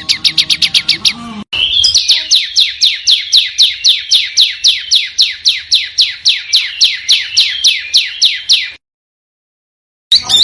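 Small songbird song: a quick string of descending chirps, then a long run of sharp, downward-sweeping whistled notes at about four a second. After a second's pause, another fast series of repeated notes begins near the end.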